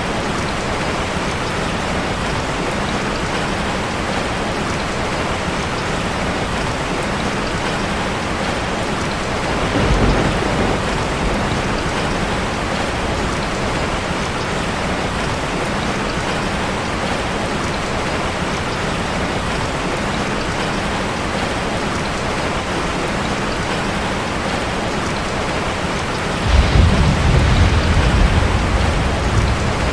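Steady rain drumming on a metal roof as an even hiss. A brief low rumble comes about a third of the way in, and a longer, louder one near the end.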